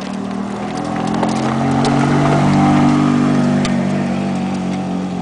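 Sports car engine running as the car drives by at low speed, growing louder to a peak about three seconds in, then easing off slightly.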